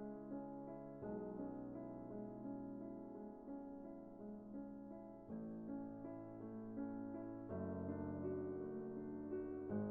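Soft background music on piano or electric keyboard: sustained chords that change every few seconds, with gentle notes played over them.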